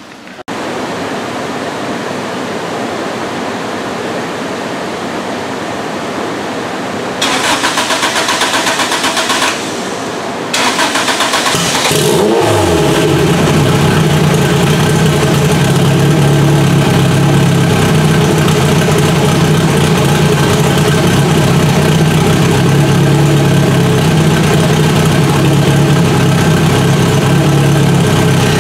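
Car engine running on a chassis dyno in a tuning shop: a steady roar at first that steps louder twice, then from about twelve seconds in the engine settles at a loud, steady speed with an even pitch.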